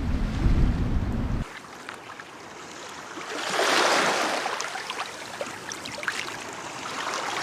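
Wind buffeting the microphone with a low rumble, cut off suddenly about a second and a half in. Then a quieter outdoor wash of noise that swells briefly around four seconds, with scattered small ticks.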